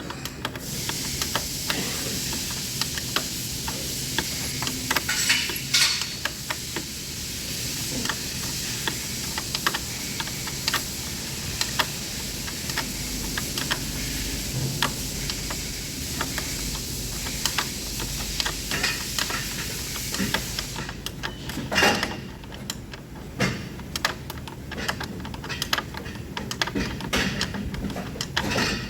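A steady hiss runs for about twenty seconds over a string of small metallic clicks and clinks, then cuts off; a few louder knocks of metal follow.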